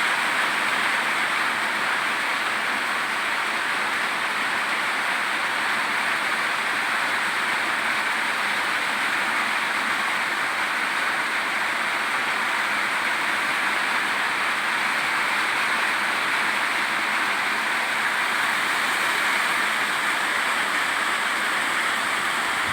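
Heavy rain falling, a steady, even hiss with no single drops or other events standing out.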